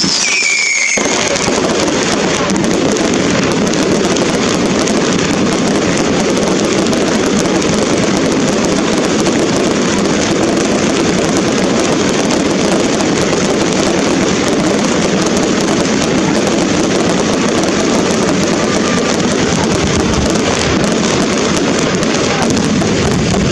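Fireworks crackling and popping densely and without a break, at a steady level, with a brief whistling glide in the first second.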